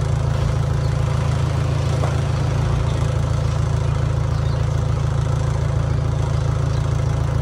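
Heavy-equipment diesel engine running steadily at an even, unchanging speed.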